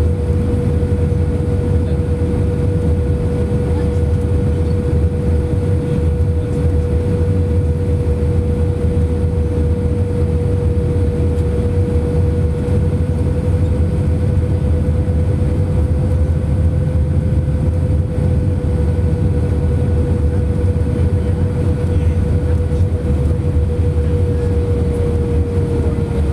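Airbus A319 cabin noise from inside the airliner: a steady roar of engines and airflow with a steady whine running through it. The whine drops slightly in pitch near the end.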